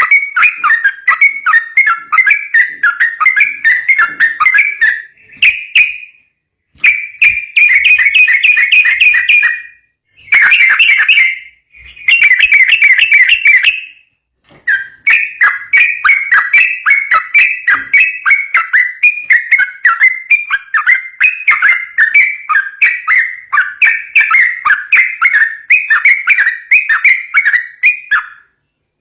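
Yellow-vented bulbul (trucukan) singing a fast chattering 'ropel' song: long runs of short, rapidly repeated whistled notes, broken by a few brief pauses.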